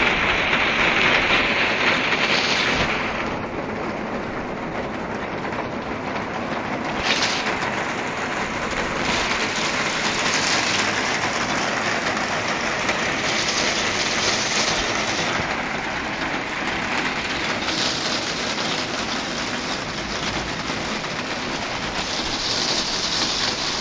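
Heavy rain pouring steadily, a dense hiss of drops on surfaces that eases a little about three seconds in and grows heavier again after several seconds.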